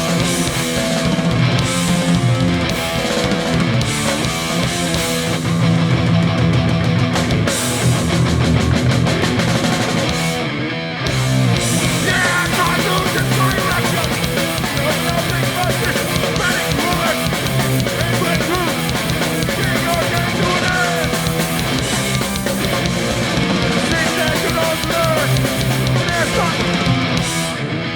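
Hardcore punk band playing live: distorted electric guitars, bass and drums, with a brief break in the music about eleven seconds in.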